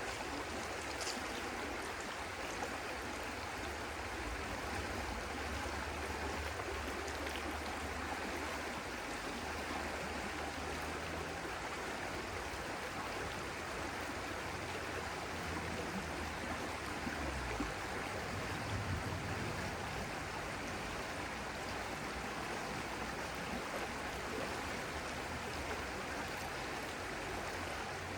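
A stream flowing: a steady, even sound of running water.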